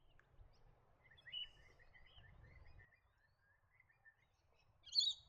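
Birds calling over faint outdoor background rumble: a run of soft chirps, then one short, louder high call near the end.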